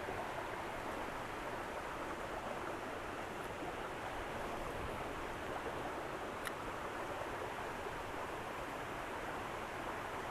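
Small creek water running steadily into a pool, an even rushing hiss. A faint short click about six and a half seconds in.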